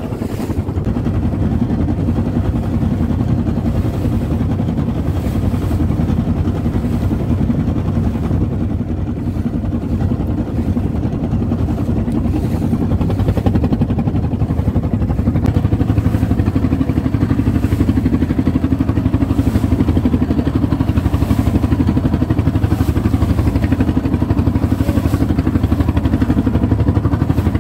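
Fishing boat's engine running steadily under way, getting a little louder about halfway through.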